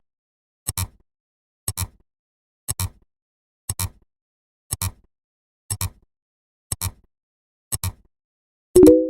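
Sound-effect ticking, a quick double click about once a second, marking the count. Near the end comes one louder, short ringing ding that fades within half a second.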